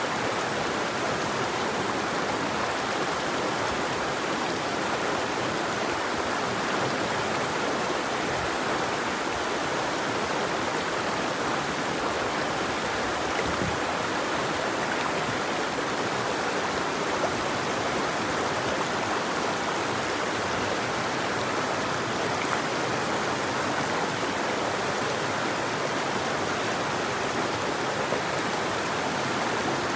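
River water flowing in a steady, even rush, with no birdsong.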